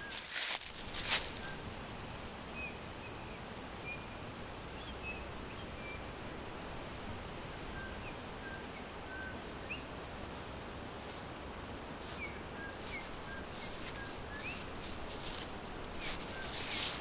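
Small forest birds chirping: scattered short, high chirps, some rising and some falling, over a steady background hiss. Brief rustling bursts come about a second in and again near the end.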